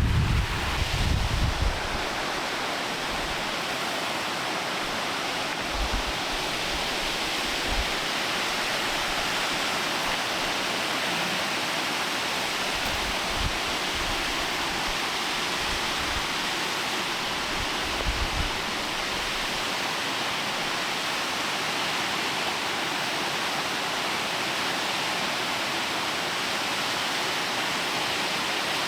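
Steady rush of a waterfall's falling water, with a few brief low bumps from wind on the microphone.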